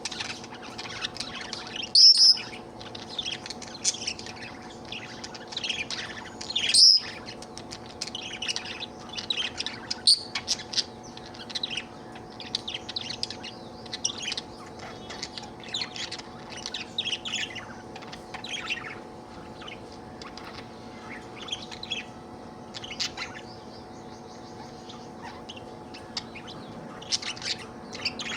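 Budgerigar warbling and chirping, a continuous stream of short, quick chirps with a couple of louder, sharp calls about two and seven seconds in.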